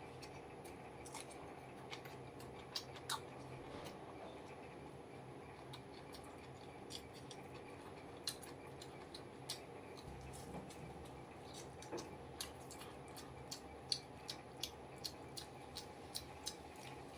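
A person chewing food, with soft, sharp mouth clicks and smacks at irregular intervals that come more often near the end, over a faint steady hum.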